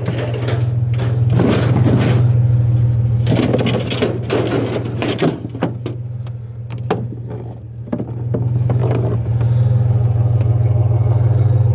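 A vehicle engine idling with a steady low hum, while knocks, clatter and scraping from loose metal and gear being handled come through during the first few seconds. The engine hum stands out more clearly in the second half.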